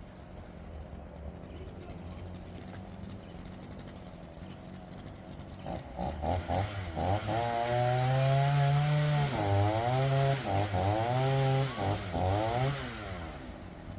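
Makkie 38cc two-stroke chainsaw idling, then about six seconds in throttled up and cutting into a log. The engine pitch dips and recovers several times under load, then drops back to idle near the end.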